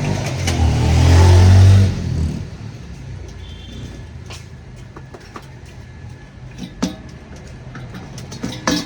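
A motor vehicle's engine running close by, loudest over the first two seconds and then dropping away. Quieter street noise follows, with a couple of sharp knocks near the end.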